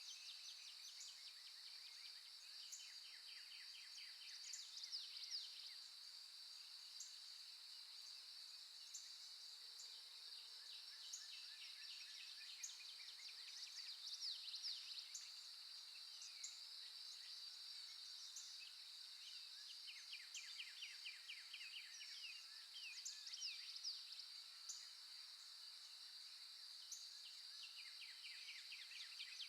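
Faint nature recording of birdsong: short chirps and rapid trills coming every few seconds over a steady high-pitched drone.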